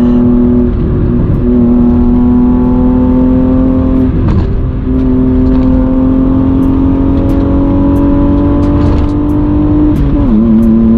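BMW 320i E36's 2.0-litre inline-six running hard under load as the car drives, heard from inside the cabin: a steady engine note whose pitch slowly climbs, with short breaks and dips about a second in, about four seconds in and near the end.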